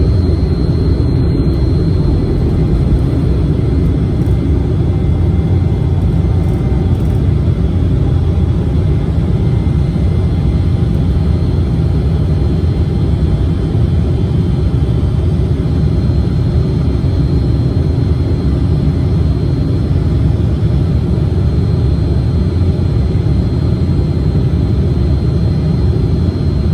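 Steady cabin noise inside a KLM Cityhopper Embraer regional jet: a deep, even rumble of the twin turbofan engines and airflow, with a faint high steady whine.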